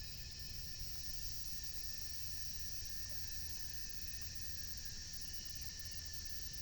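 Steady insect chorus: an even, high-pitched buzz that holds unchanged, over a low rumble.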